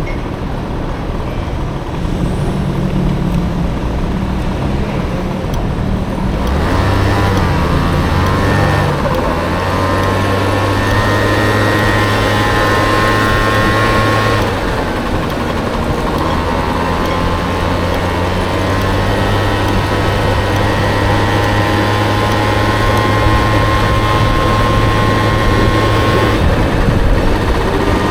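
Honda Dio two-stroke scooter engine on a Motocompo, running under way: it rises in pitch as the scooter accelerates and holds a steady cruising note, eases off about halfway through, then picks up and cruises again before easing off near the end.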